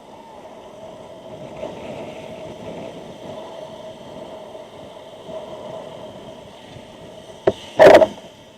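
Steady riding noise picked up by a motorcycle helmet's Freedconn R1 microphone: a low rush with a steady hum, and little wind roar. Near the end comes a sharp click, then a loud burst about half a second long.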